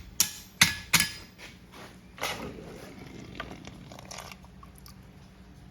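Farrier's hammer striking a hot steel horseshoe on the anvil, ringing, three more blows about 0.4 s apart that stop about a second in. A softer rushing noise follows about two seconds in.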